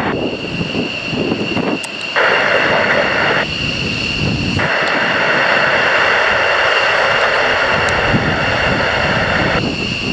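F-15 jet engines running at taxi power, a steady high whine. Airband radio hiss cuts in and out twice as a transmitter keys with no voice on it.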